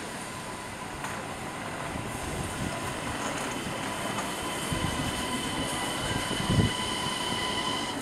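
Passenger train running on rails, heard from on board: a steady rumble with thin high whining tones above it, slowly growing louder, and one low thump about six and a half seconds in.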